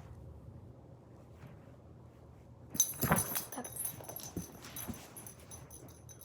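A dog moving about, with metal collar tags jingling and a few knocks starting about three seconds in.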